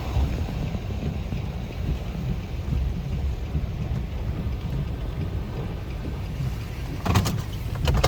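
Strong wind rumbling low and steady against the microphone and vehicle, with a cluster of sharp clicks about seven seconds in.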